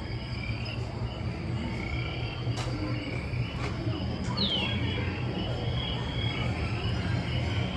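A steady low rumble with scattered high chirps over it, one of them a quick falling chirp about halfway through.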